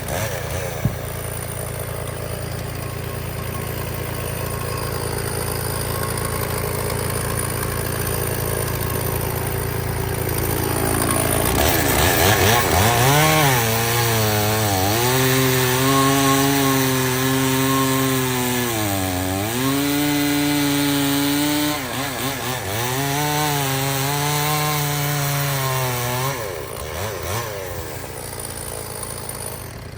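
Stihl chainsaw running and cutting through firewood logs. In the second half its engine note is strong, dipping and recovering several times as the chain works through the wood, then falls away near the end.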